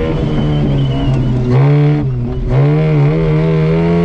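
Offroad competition vehicle's engine heard from inside the cabin under load, its pitch rising about one and a half seconds in, briefly falling away around two seconds as the throttle is eased, then pulling steadily again.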